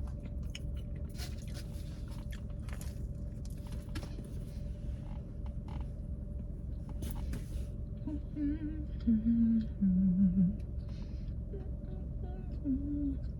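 Mouth sounds of a woman eating, with small clicks and crackles, over a steady low hum. From about eight seconds in she hums a handful of short notes at changing pitches.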